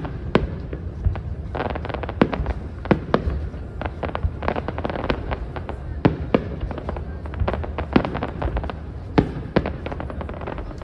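Aerial fireworks shells bursting: an irregular run of sharp bangs and crackles, a few louder reports standing out, over a continuous low rumble.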